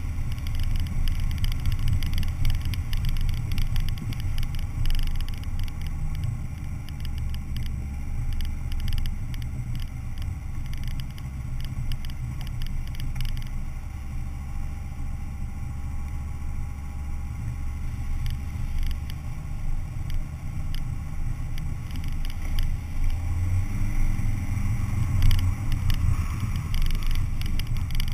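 Four-wheel-drive SUV driving, its engine and drivetrain giving a steady low rumble, with scattered short clatters and knocks over it.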